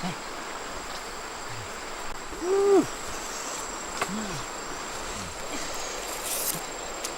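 Steady high-pitched insect trill, with a few short calls that rise and fall in pitch, the loudest about two and a half seconds in, and a single sharp click about four seconds in.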